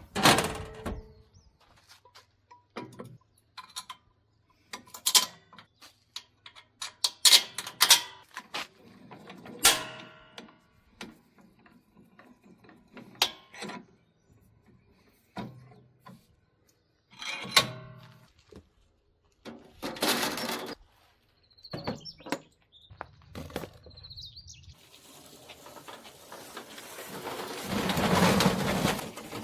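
Irregular metal clanks and knocks, some ringing briefly, from steel cart parts being handled and fitted together. Near the end a rushing noise swells over a few seconds.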